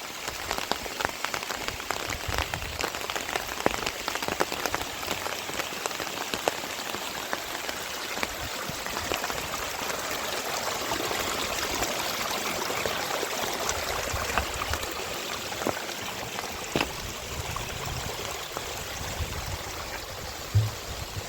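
Heavy rain falling steadily, with many individual drops ticking sharply close by. A short knock sounds near the end.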